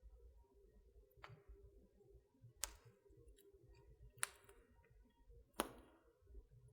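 Wood fire in a fireplace crackling faintly: four sharp pops about a second and a half apart over a soft low rumble.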